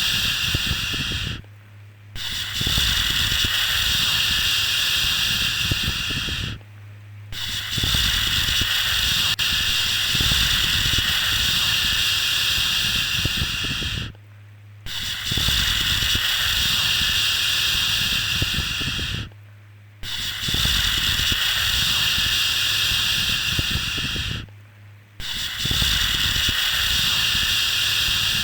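Long, steady 'shhh' shushing sounds for lulling a baby to sleep, each held for about five to seven seconds with a brief pause under a second between them.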